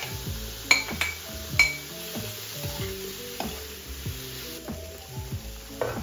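Grated carrots and green beans sizzling in a hot wok as they are stirred, with a metal fork clinking sharply against the pan three times in the first two seconds. Gentle background music plays over it.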